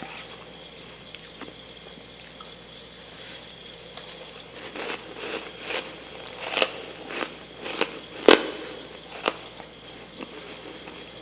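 Soft freezer frost being bitten and crunched in the mouth. After a quiet start, a run of crisp crunches begins partway in, the loudest one near the end.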